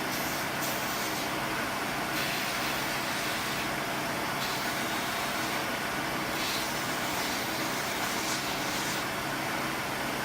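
A workshop machine's electric motor running steadily, a constant hum under a loud even hiss, with faint brief scraping touches in the high end now and then.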